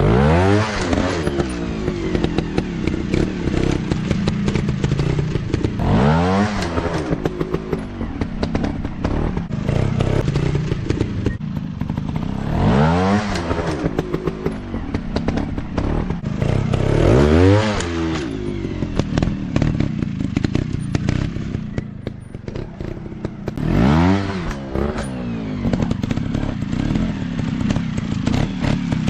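Dirt bike engine running, revved up sharply about five times, each rev climbing in pitch and then dropping back, with clattering knocks in between.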